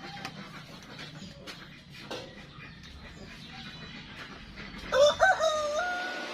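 Rooster crowing once, about five seconds in: a few short rising notes, then one long held note.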